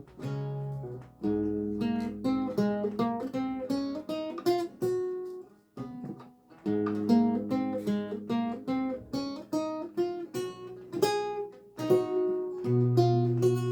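Solo lute music: plucked single notes and chords, each ringing and dying away, in phrases with a short pause about halfway through.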